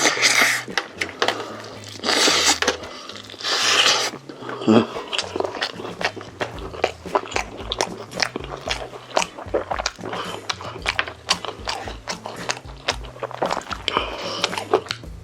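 Close-miked eating: crunching bites and rapid wet chewing clicks of crispy roast chicken, with background music underneath.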